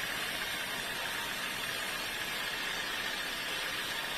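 Sawmill machinery running with a steady, even noise that does not change.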